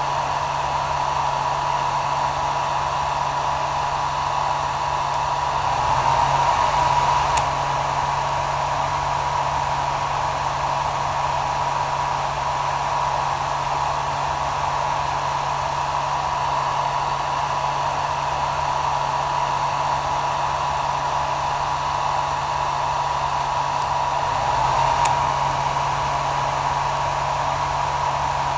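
Hair dryer running steadily: an even rush of air with a steady high whine and a low motor hum, briefly a little louder twice.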